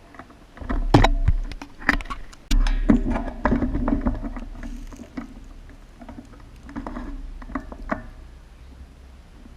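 A run of irregular knocks and clicks with rustling and a low rumble, busiest in the first half and thinning out after about five seconds.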